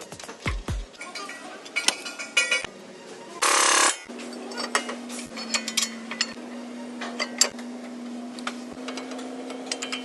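Hand tools working on car suspension parts: scattered metallic clicks and clinks, a short loud hiss about three and a half seconds in, then a steady low hum under continued clicking.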